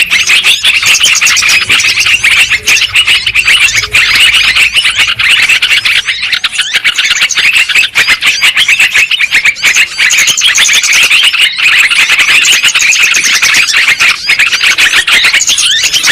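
Yellow-vented bulbuls (trucuk) calling noisily: a dense, unbroken chatter of rapid notes.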